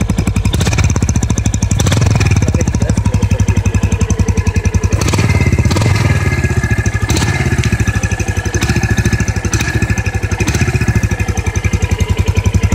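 Mash 250cc motorcycle engine running at idle with an even pulsing exhaust beat, rising briefly a few times.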